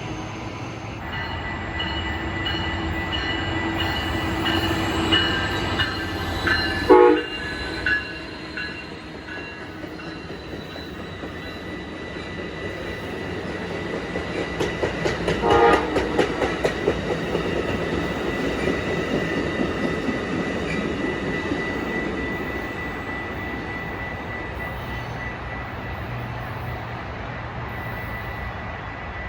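A train passing: its horn sounds about five to seven seconds in, then the wheels click rhythmically over rail joints, loudest around the middle, over a steady rumble.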